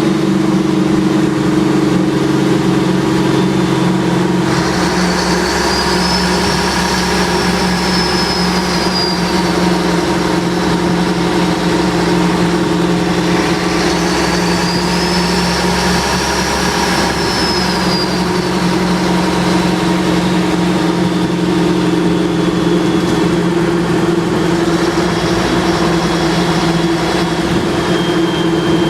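Fire ladder truck's diesel engine running steadily, heard from the open cab. About four and a half seconds in the engine note shifts, and twice a high whine rises and falls over a few seconds.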